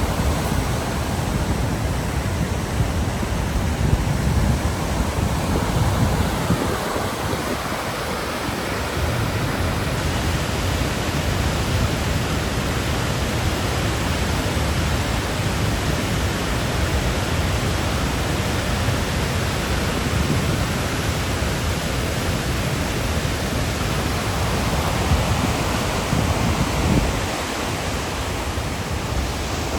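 The Great Falls of the Passaic River: a steady rush of falling water, so loud.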